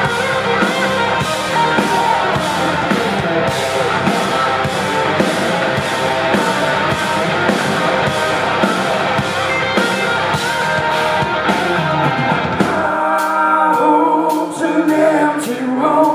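Rock band playing live: electric guitar over drums and bass, with steady cymbal beats. About thirteen seconds in, the bass and drums drop out and only the higher parts carry on.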